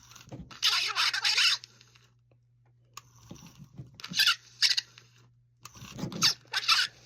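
Talking Pee Wee Herman doll playing its recorded voice in three short bursts, thin and squeaky; the voice is distorted, 'kind of jacked', from a worn or failing sound unit.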